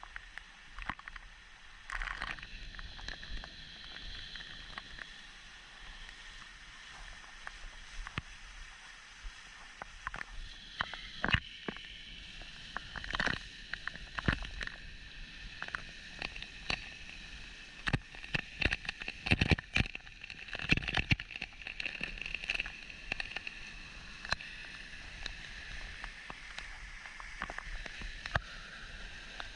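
Water sloshing and splashing in irregular bursts, as of someone wading up a shallow forest stream, over the steady flow of the water. The splashes come thickest through the middle.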